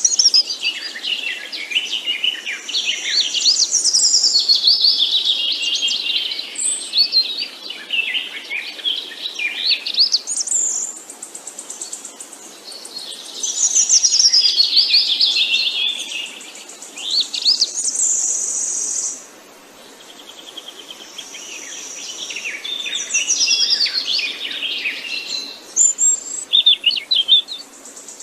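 Birds chirping and singing in repeated phrases of quick, sweeping notes that often slide downward. A steady, high buzzing comes and goes between the phrases.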